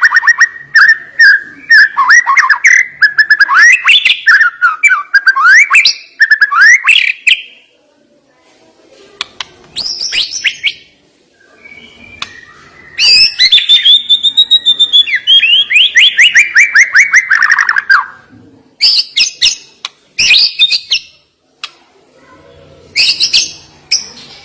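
White-rumped shama (murai batu) singing loud, varied whistled phrases with sharp notes, in clusters separated by short pauses. Around the middle comes a long run of rapid repeated notes falling steadily in pitch over about five seconds, followed by short bursts of song.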